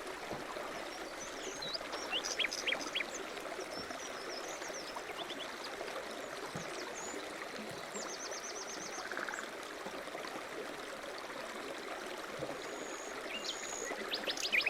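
Several small songbirds chirping and trilling, with short rapid note series, over a steady rushing background noise.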